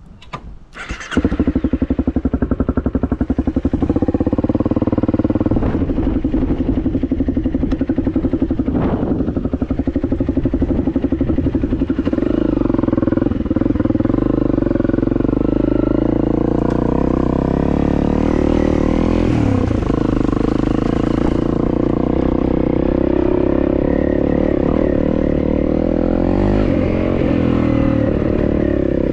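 Honda CRF250 dirt bike's single-cylinder four-stroke engine starting about a second in, then running loud and fairly steady with small changes in engine speed.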